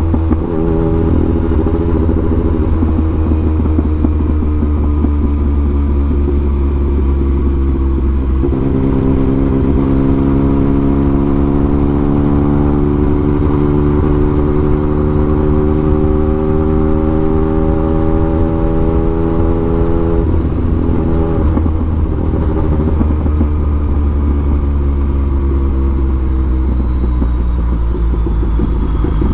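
Yamaha MT-09's inline-three engine with an aftermarket exhaust, ridden flat out: it runs steadily at first, then about eight seconds in the pitch begins a slow, long climb as the bike pulls toward top speed, and around twenty seconds in it drops back lower.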